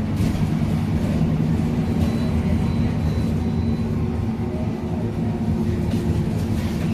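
Scania K310UA articulated city bus's diesel engine running under way, a steady low drone.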